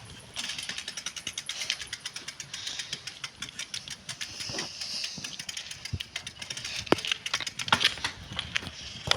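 Bicycle being ridden: a rapid, continuous run of sharp clicks and rattles that starts suddenly just after the beginning, with a few louder knocks near the end.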